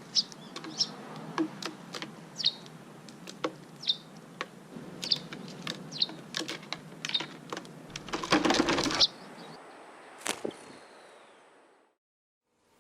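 Short high chirps of a small bird mixed with scattered sharp clicks and taps, and a brief rustling stretch about eight seconds in.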